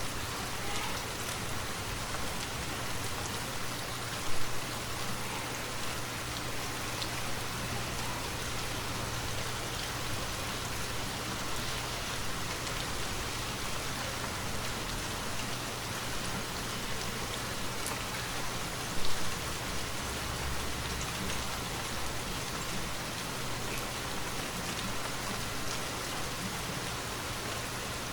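Continuous rain falling through trees: an even hiss dotted with individual drops. Two brief, louder taps stand out, about four seconds in and again about nineteen seconds in.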